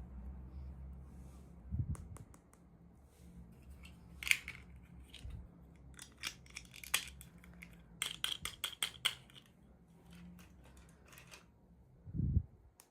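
Small plastic toy packaging being handled and opened by hand: scattered sharp clicks and snips, with a quick run of clicks a little past the middle and a dull thump near the end.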